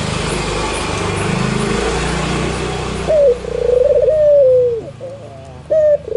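Albino Barbary dove (white, red-eyed 'puter') cooing: a run of low coos that slide down in pitch, starting about halfway in, after a stretch of loud rushing noise with a low hum.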